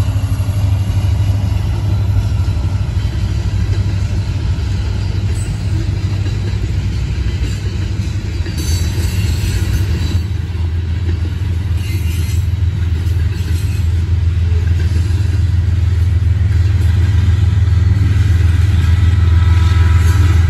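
Freight train rolling past close by: a loud, steady rumble of wheels on rail with some clatter, and a faint thin squeal creeping in near the end.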